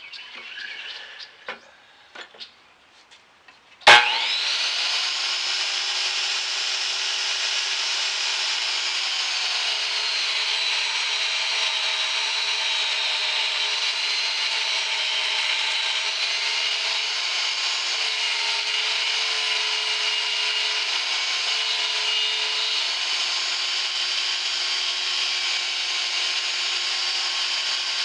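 A few light handling knocks, then a table saw switched on with a click about four seconds in and running steadily as it rips along a rough-cut board held in a jig, cutting one straight edge. The saw's tones waver slightly as the blade works through the wood.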